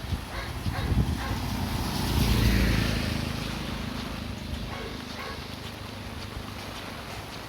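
A motor vehicle passing on the road, its engine swelling to its loudest about two and a half seconds in, then fading away. Footsteps tick lightly and evenly underneath in the first second or so.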